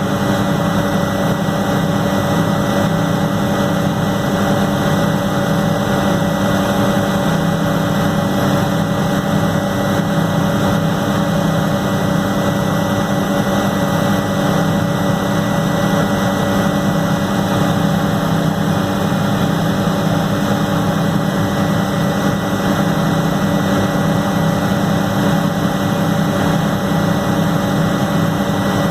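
Helicopter running with a steady, unbroken drone, several constant tones held above a wash of engine and rotor noise.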